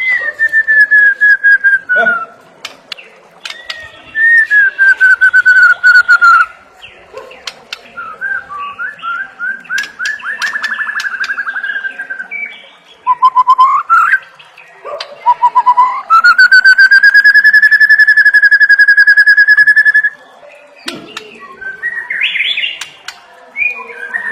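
White-rumped shama singing loud, clear whistled phrases: two long falling whistles, then a run of quick repeated notes, a couple of short rising notes, and one long steady whistle held for about four seconds near the end.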